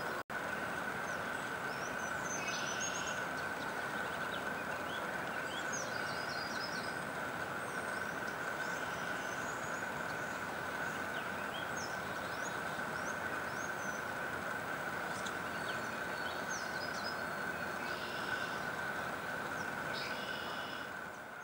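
Steady outdoor background noise with a constant high tone running through it, and small birds chirping and calling in short bursts now and then. The sound drops out for an instant just after the start and fades out at the end.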